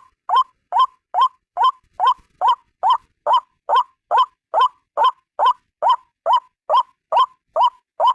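White-breasted waterhen (ruak-ruak), a single bird calling. It repeats a short rising note about two and a half times a second, at a perfectly even pace.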